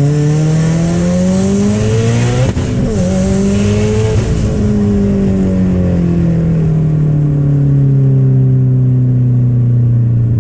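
Subaru WRX STI's EJ engine, fitted with a big turbo and a Tomei cat-back exhaust, pulling hard under throttle. The pitch climbs, breaks for an upshift about two and a half seconds in, and climbs again. It then falls steadily for several seconds as the engine winds down off throttle. The exhaust tone is loud and raspy, which the owner blames on the Tomei exhaust with the bigger turbo.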